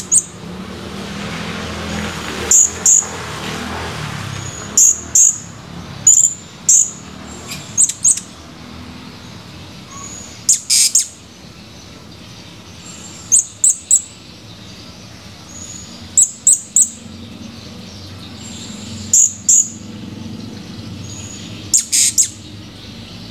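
Blue-crowned hanging parrot (serindit) giving sharp, very high-pitched chirps, mostly in quick pairs or runs of two or three, repeated every two to three seconds.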